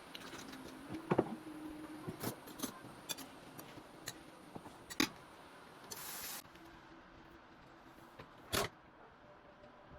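Scattered clicks and knocks of objects being handled, a brief hiss about six seconds in, and a louder knock near the end, over a faint steady hum.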